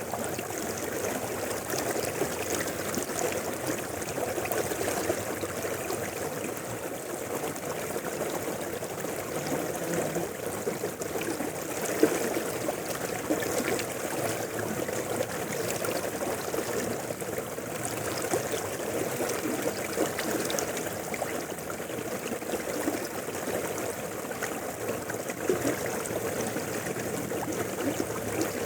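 Mountain river flowing, a steady rush and babble of water with no break.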